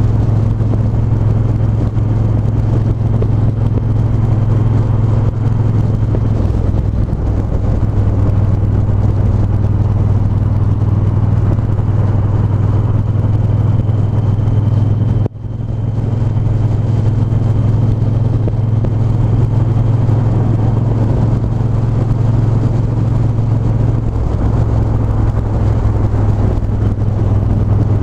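Triumph 1200 cc parallel-twin motorcycle engine running steadily under way, its note shifting a little now and then. The sound drops out for a moment about halfway.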